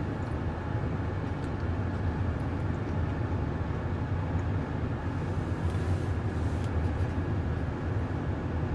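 Steady low rumble of a car's engine running, heard from inside the cabin, with a few faint clicks.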